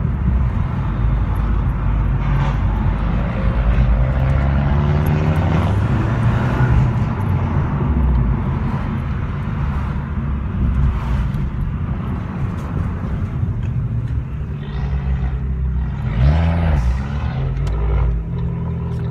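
Car engine and road noise heard from inside the cabin while driving. The engine note rises and falls with the throttle, with a clear dip and climb in pitch near the end.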